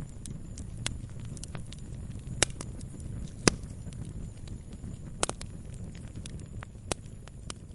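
Wood fire crackling in a fireplace: a steady low rumble of burning with irregular sharp pops and snaps, about half a dozen, the loudest about three and a half seconds in.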